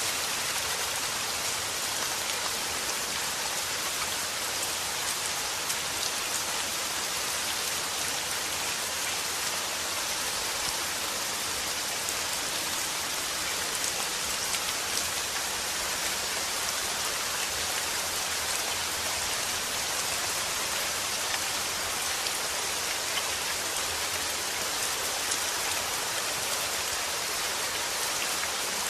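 Steady rain falling, a constant hiss of many drops striking a surface with fine individual drop ticks throughout.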